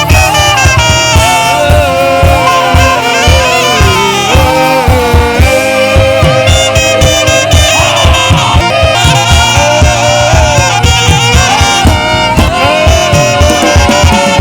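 Saxophone playing a flowing, sustained worship melody over a live band with keyboard, bass and a steady drum beat.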